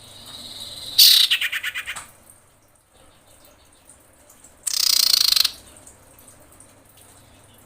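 Female common iora (cipoh) in breeding condition calling for a male: a faint thin whistle, then a loud, rapidly pulsed chattering call about a second in, and a second harsh call past the middle.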